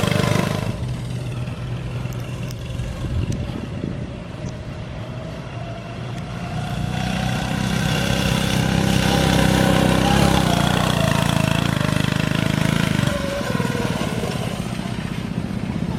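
Small single-cylinder engine running and revving as a small vehicle drives about; it gets louder and higher in pitch toward the middle, then eases off.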